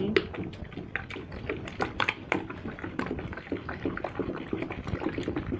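A thick, viscous soap mixture being stirred by hand in a container, with wet sloshing and irregular knocks of the stirrer against the container's sides.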